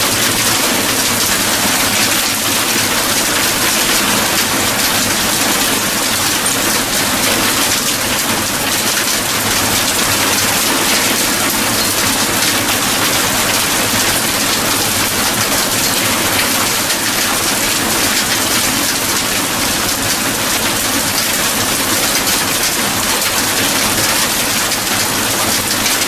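Heavy rain pouring down steadily, a loud, dense, even hiss that cuts in suddenly.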